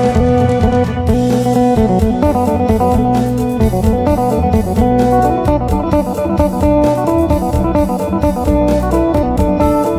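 Three-string electric phin, a one-piece black-teak body with Seymour Duncan and Wilkinson pickups, playing a fast melody of quickly picked notes over steadier low notes.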